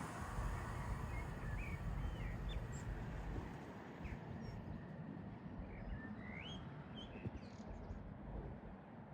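Small birds chirping in short rising notes over a low rumble, as the sound of a passing train dies away at the start.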